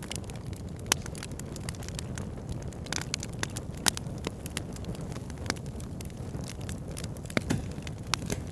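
Fire burning in a fireplace: a steady low rumble of the flames with frequent sharp crackles and pops. A few louder snaps stand out, about a second in, near the middle, and near the end.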